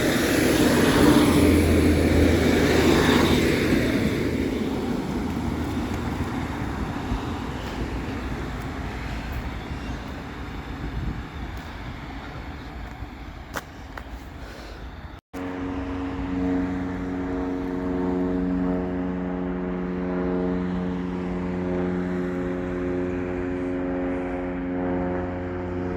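A large vehicle's engine running, its noise fading away over the first several seconds. After an abrupt break about fifteen seconds in, an engine idling with a steady, even hum.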